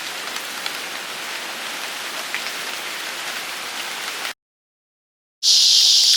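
Steady rain falling, with scattered faint drop ticks. It cuts off abruptly about four seconds in, and after a second of silence a loud, steady high-pitched hiss begins.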